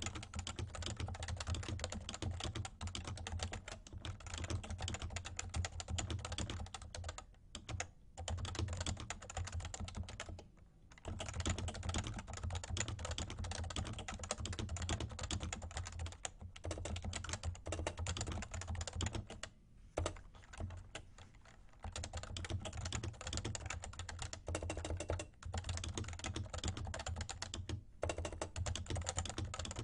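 Continuous typing on a Realforce R2 TKL keyboard with light 30 g Topre switches: a dense run of soft key strokes, broken by a few brief pauses.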